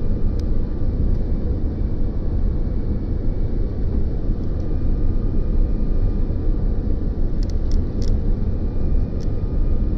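Steady low rumble of a jet airliner's cabin noise, with a faint high hum and a few light clicks about three-quarters of the way through.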